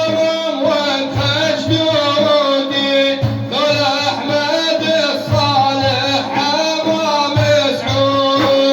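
Music: a chanter's voice sings a religious praise poem (madih) in long, ornamented lines over sustained instrumental tones and a low, regular beat.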